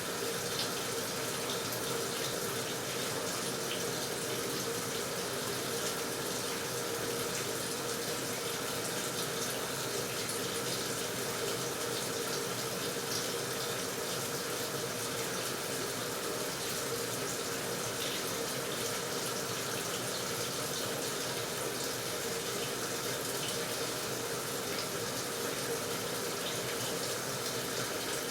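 AQUA washing machine filling its tub with water: a steady rush of water from the inlet with a faint even hum underneath.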